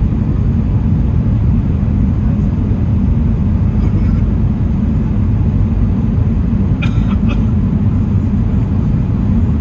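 Steady low rumble of engine and airflow noise inside the cabin of an Emirates Airbus A380. A couple of small clicks come about seven seconds in.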